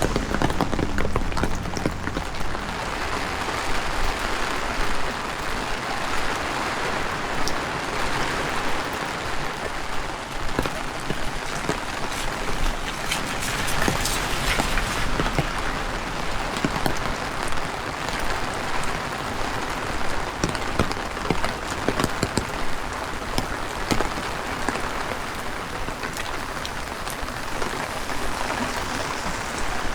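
Heavy rain falling steadily, with many close drops landing as sharp ticks. A low rumble of wind comes in near the start and again about halfway through.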